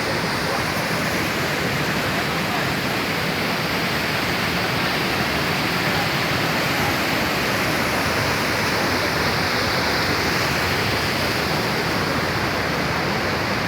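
Waterfall pouring steadily, a constant loud rush of falling water.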